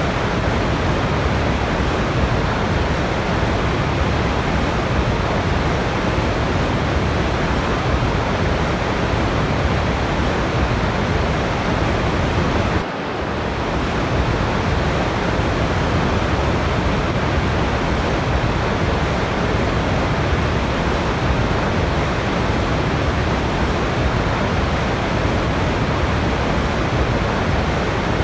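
Steady, even rushing of a waterfall, with a brief dip in level about halfway through.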